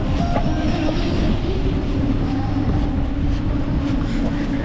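Steady wind buffeting and tyre rumble on the microphone of a moving bicycle.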